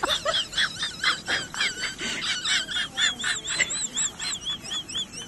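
Rapid high-pitched animal chirping, about four short calls a second, each rising and falling in pitch.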